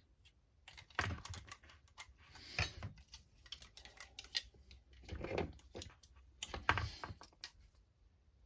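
Small plastic and metal parts of an RC crawler chassis being handled and fitted, giving irregular clicks and light knocks in several clusters.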